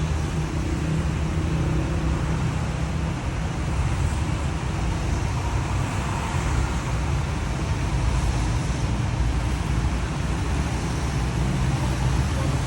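Steady city road traffic: a low engine rumble under a broad hiss of tyres on wet road.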